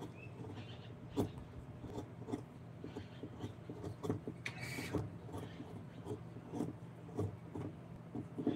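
Hand work on wood: irregular light taps and clicks, with a short scraping hiss about halfway, over a low steady hum.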